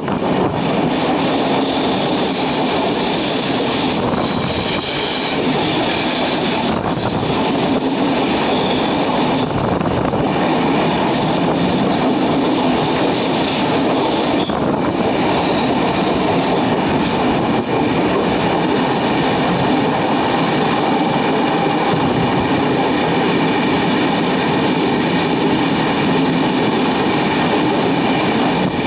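Passenger train running on the rails, a continuous steady rumble of wheels and coaches, with a high wheel squeal during the first several seconds.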